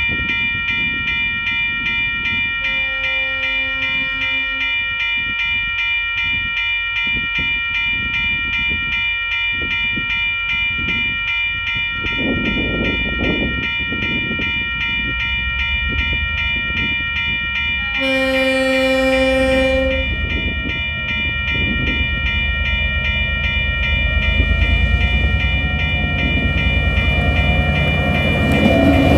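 Tasrail log train hauled by diesel locomotives DQ2011 and TR03 approaching: its horn sounds two blasts of about two seconds each, a softer one a few seconds in and a louder one about two-thirds through, then the locomotive engines grow louder until they pass near the end. A steady, rapidly pulsing ringing tone runs throughout.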